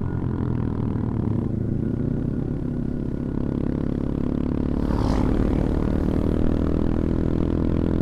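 CFMoto Papio XO-1 minibike's small single-cylinder engine running under way at a fairly steady pitch, with a brief rush of hissing noise about five seconds in.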